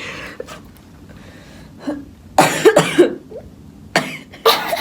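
A person coughing in two short fits, about two and a half seconds in and again near the end.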